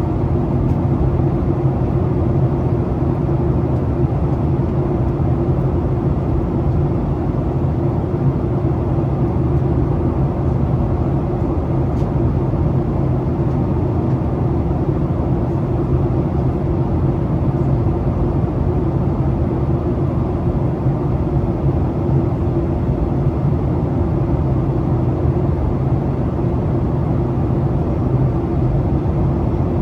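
Steady cabin noise inside a Boeing 737 airliner in flight on its descent: a constant engine drone with a low hum under the rush of air along the fuselage.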